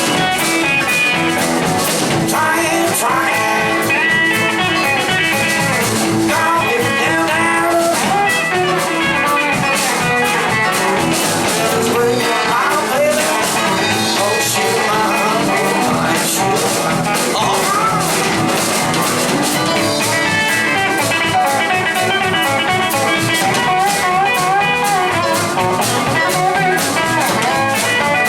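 Blues band playing at a steady level: electric guitars over drums, bass and keyboards.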